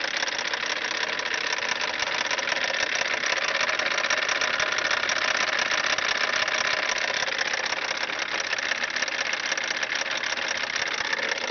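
BMW 325tds E36's 2.5-litre inline-six turbodiesel running with a rapid, steady knocking from the belt-drive end. The owner blamed it on the power-steering pump, and it turned out to come from loose pulley bolts.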